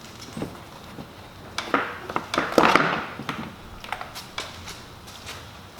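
Hand tools and motorcycle parts being handled, giving light clicks and clatter, with a louder scraping rustle about two seconds in.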